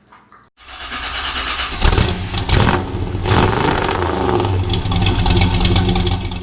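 An engine starting and running loudly with revving, cut off abruptly at the end.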